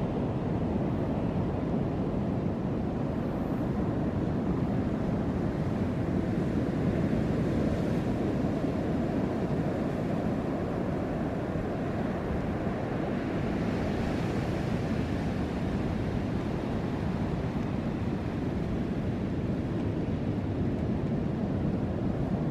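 Ocean surf: waves rushing in between rocks in a continuous wash, with wind buffeting the microphone. A wave breaks a little louder and brighter about two-thirds of the way through.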